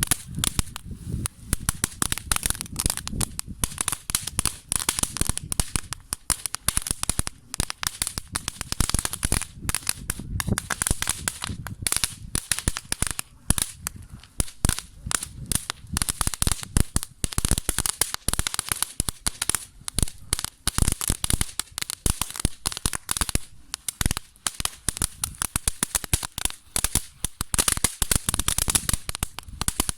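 Small firework fountain burning with a continuous, dense, irregular crackle over a steady hiss.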